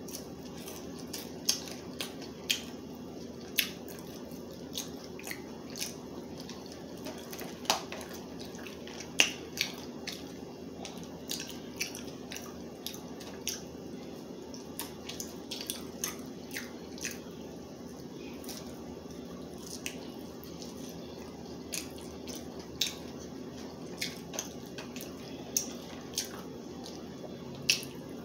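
Close-miked eating sounds: scattered wet mouth clicks and smacks while a person chews, over a steady low hum.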